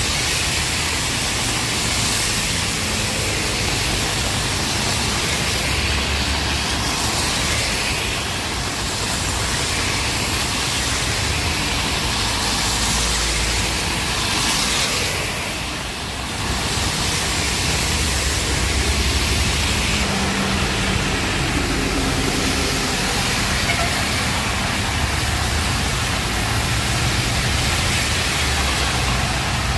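Steady hiss of heavy rain with road traffic running through it, vehicle engines rumbling underneath. The sound dips briefly about halfway through.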